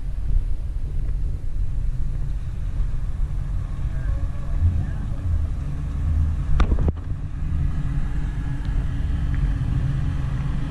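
Car engine running with a steady low rumble, a clearer engine tone joining after about seven seconds as a classic car rolls up through the lot; one sharp click about two-thirds of the way through.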